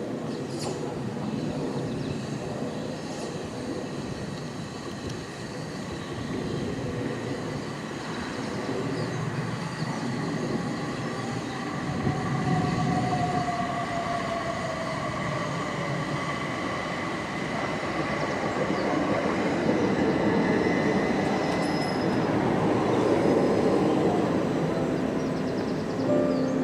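A train running past on the line: continuous rumbling with steady high-pitched tones over it and a tone that slides down in pitch around the middle, growing louder toward the end.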